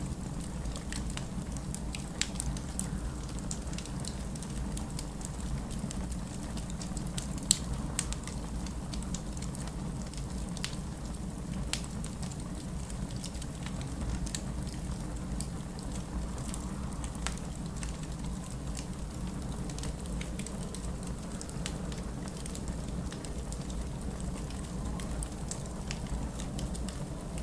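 Wood fire burning in a fireplace, with scattered crackles and pops over a steady low rumble. One pop about seven and a half seconds in is louder than the rest.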